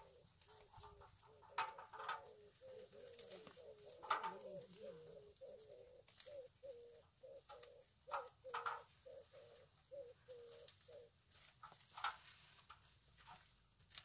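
A bird calling faintly in a long run of short, evenly repeated notes at one pitch, about two or three a second, stopping near the end. Sharp clicks and rustles of handling come and go over it, the loudest about four seconds in.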